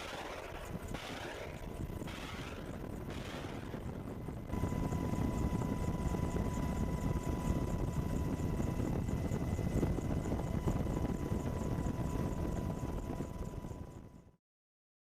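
Apache attack helicopter rotor and engine noise, a steady rumble with falling swishes about once a second over the first few seconds. About four and a half seconds in it turns louder and deeper, with a steady high tone running over it, and near the end it cuts off abruptly.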